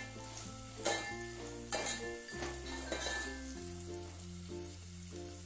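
Chopped onion frying in hot oil in an aluminium pot, sizzling, as a steel spoon stirs it and scrapes against the pot a few times. Background music with held bass notes and a short-note melody plays underneath.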